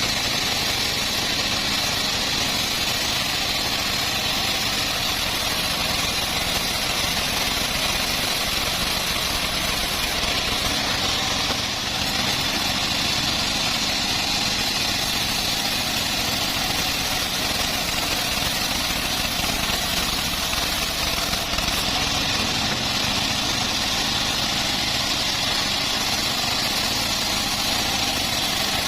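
Homemade bandsaw sawmill running steadily, a continuous machine drone at an even level.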